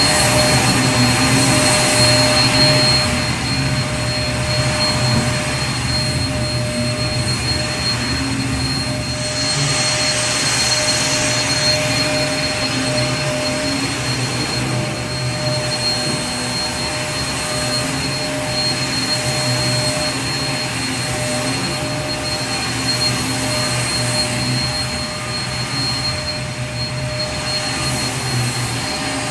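Vacuum cleaner motor running continuously: a steady whine with a rushing airflow that swells and eases slowly, as if the nozzle were moving over a surface.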